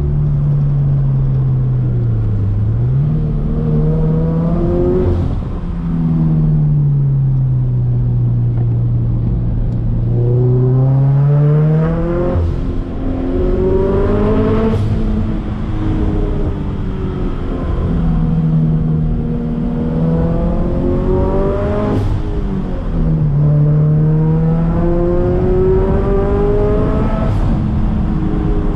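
Turbocharged Scion FR-S's flat-four engine under hard driving: the revs climb again and again, then fall back at each lift or gear change, five or six pulls in all. A brief sharp sound comes at several of the points where the revs drop.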